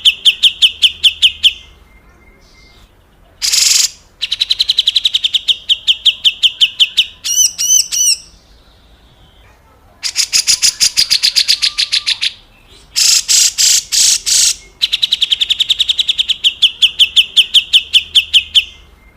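Cucak jenggot (grey-cheeked bulbul) giving its harsh, rasping 'besetan kasar' calls: rapid trains of about ten buzzy notes a second, in several bouts of one to three seconds separated by short pauses, with a few short looping notes midway.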